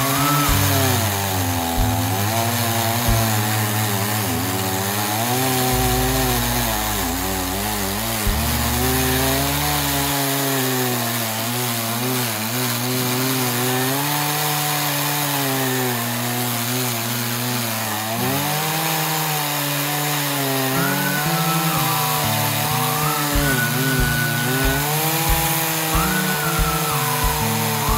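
Chainsaw running and cutting wood, its engine pitch rising and dropping again and again as it speeds up and bogs under load in the cut.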